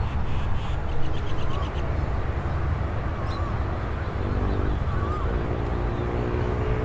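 Outdoor ambience: a steady low rumble, with a motor's hum coming in about four seconds in. Over it a bird gives a short warbling call every second or two, and a burst of rapid chattering clicks sounds in the first two seconds.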